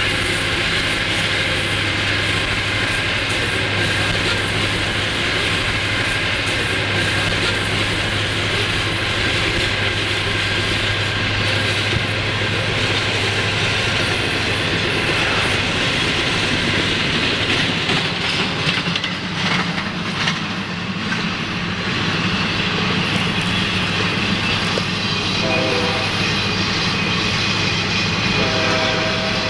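Freight train rolling past, a steady clatter of wheels and cars on the rails that thins out about two-thirds of the way through. Near the end a horn sounds twice, briefly.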